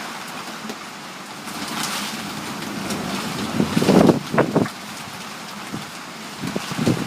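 Tropical storm wind, with rain, blowing steadily. Gusts batter the microphone about four seconds in and again near the end, with gusts above 30 knots.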